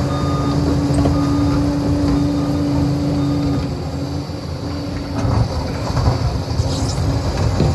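Liebherr 746 crawler dozer working, its diesel engine running steadily with a held high note that weakens after about three and a half seconds. From about five seconds in there are knocks and clatter.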